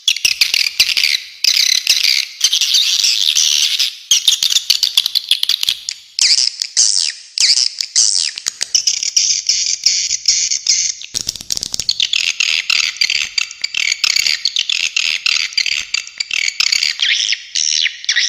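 Swiftlets twittering continuously: dense, rapid high-pitched chirps and clicking trills, the pattern changing abruptly every few seconds.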